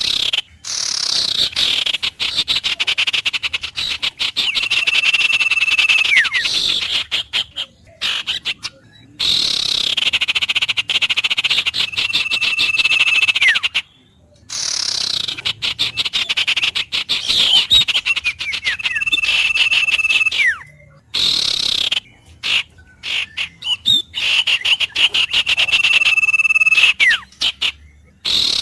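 Animal call repeating about every seven seconds. Each call is a high falling sweep, then a held steady whistle-like note about a second long, ending in a short downward slur. Brief abrupt dropouts of sound fall between some of the calls.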